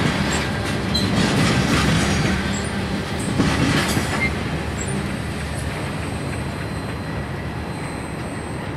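Freight train of covered hopper cars rolling past: steel wheels clattering on the rails with short, high wheel squeals. It grows gradually quieter over the second half as the last cars go by.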